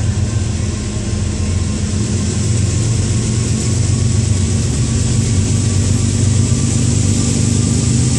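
Steady low rumble of an approaching train's diesel locomotive, growing slightly louder.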